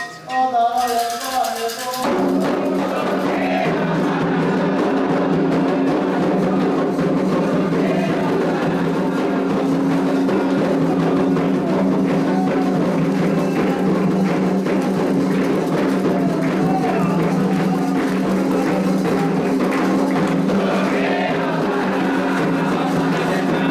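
Candomblé ritual music: a voice sings briefly, then about two seconds in atabaque drums and other percussion start up under sustained group singing.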